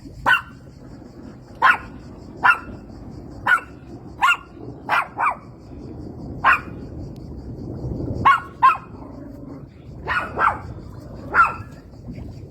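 A dog barking, about a dozen short, sharp barks at irregular intervals, some in quick pairs, over a steady low background rumble.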